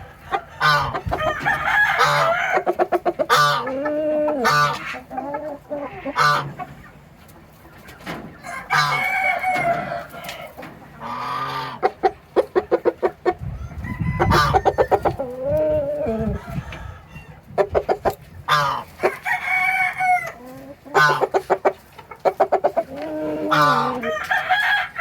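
Ga Noi chickens: a rooster crowing again and again, about five long crows, with quick clucking calls in between.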